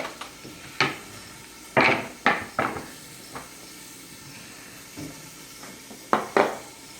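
Dishes and kitchen utensils clattering: a handful of sharp clinks and knocks in two quick clusters, a few seconds apart.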